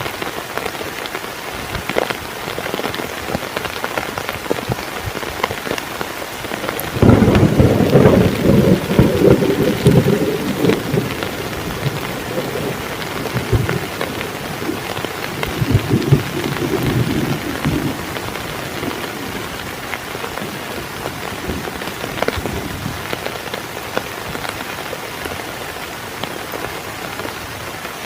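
Heavy rain falling steadily, with a loud clap of thunder that breaks in suddenly about seven seconds in and rumbles for several seconds, followed by weaker rolling rumbles a little later.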